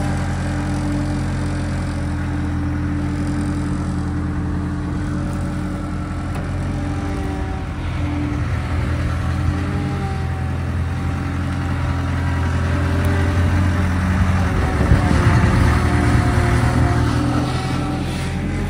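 Skid steer engine running steadily, getting louder about two-thirds of the way through and easing off again near the end.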